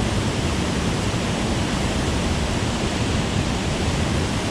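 Water let out through a dam's spillway flood gates, rushing and churning over rocks: a loud, steady rush with no breaks.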